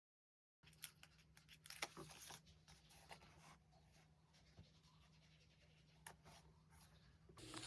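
Faint desk work with stationery: scattered light taps and clicks with paper rustling, over a low steady hum.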